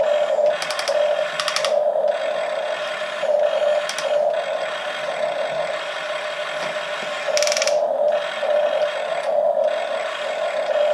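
Radio-controlled model excavators working: their small electric motors and gearboxes whine steadily, swelling and easing as the machines move, with several short bursts of fast gear clicking, the first about half a second in and another near seven and a half seconds.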